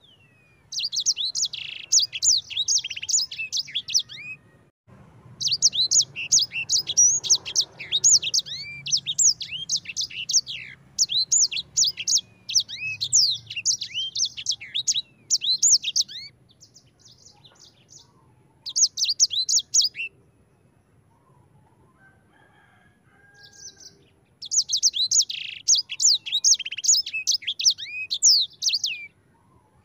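Sanger finch singing: fast, rolling strings of high chirps and trills in several long phrases, the longest lasting about ten seconds, with a few seconds' pause between phrases.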